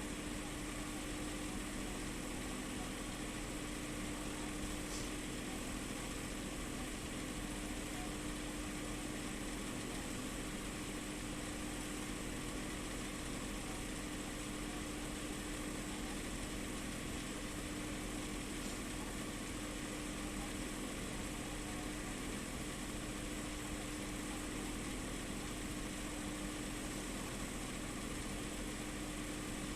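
A steady machine hum with a constant low drone and an even hiss above it, unchanging throughout.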